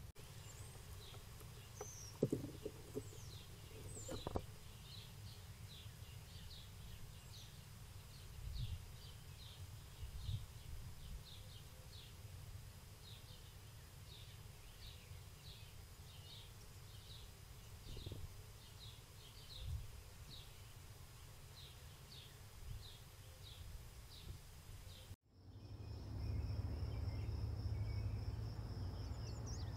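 A bird repeats a short, falling high chirp over and over, one to two a second, over a low outdoor rumble, with a couple of sharp knocks in the first few seconds. Near the end the sound cuts off abruptly and a louder, different recording takes over.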